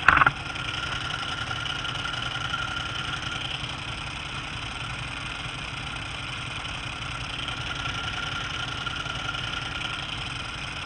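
Suzuki GSX-R (Gixxer) motorcycle engine running steadily, with rushing wind noise on the bike-mounted camera. There is a brief loud knock at the very start.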